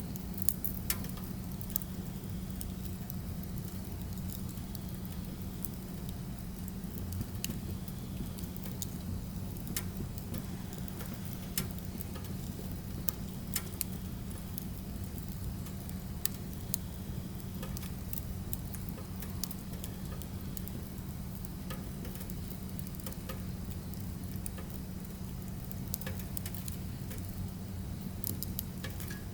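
Burning firewood crackling, with irregular sharp pops and snaps scattered over a steady hiss of the fire. A steady low hum runs underneath.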